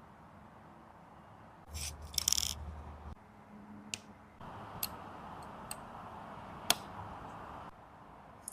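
Watchmaker's bench work on a watch movement: a brief scraping rustle with a low hum about two seconds in, then a light hiss and several sharp small clicks of metal tools and parts, one louder click near the middle.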